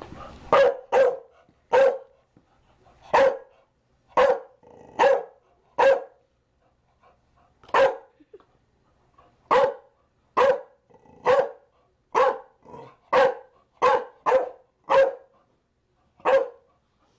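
Chow Chow barking: about seventeen short, sharp single barks at uneven intervals, some coming in quick pairs.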